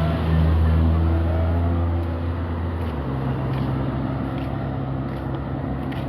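Steady low drone of a vehicle's engine, whose pitch changes about three seconds in.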